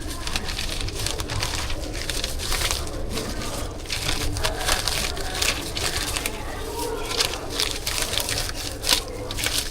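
Irregular crinkling and small clicks of a street-food portion being filled and wrapped by hand, over a steady low hum.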